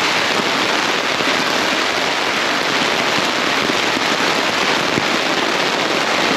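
Heavy rain pounding on a four-season tent, heard from inside: a dense, steady drumming of drops on the fabric.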